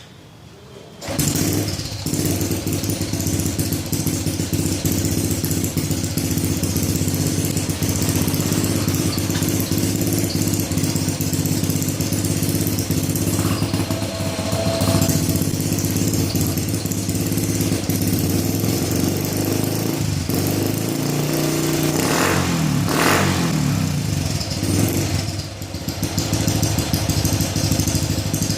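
Honda Supra Fit X motorcycle engine starting about a second in, then idling steadily through a gutted (bobok) exhaust chamber, with a brief rev near the end.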